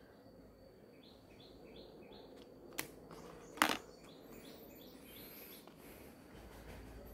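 Birds chirping faintly in the background, a run of short repeated chirps about three a second. Two sharp taps near the middle, a little under a second apart and the second louder, as a sachet and boxes are set down on a table.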